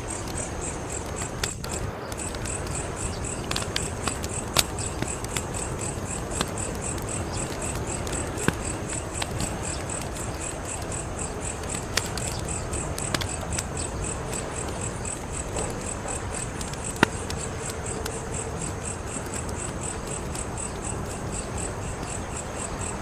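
Wood fire crackling: irregular sharp pops and snaps over a steady rushing hiss, the loudest snap about 17 seconds in. A high-pitched pulsing chirp runs steadily behind it.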